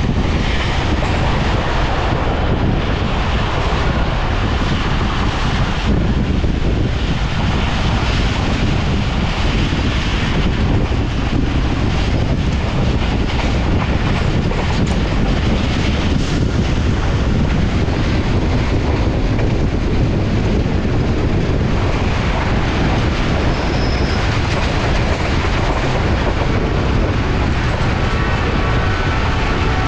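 Passenger train running at speed, heard through an open coach window: a steady, loud rumble of wheels on the rails mixed with rushing wind.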